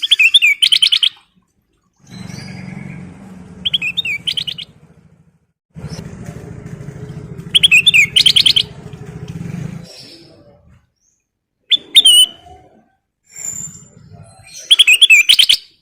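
Kutilang emas bulbul singing loud, short bursts of rapid, repeated chattering notes, about five phrases spaced a few seconds apart. A low, steady hum runs underneath for several seconds in the middle.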